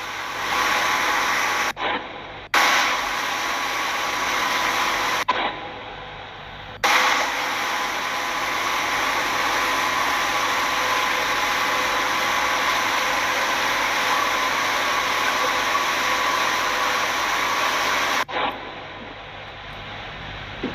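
Boat engine running steadily under a loud, even rushing noise, with faint steady hum tones. The sound briefly dips and loses its top end a couple of times.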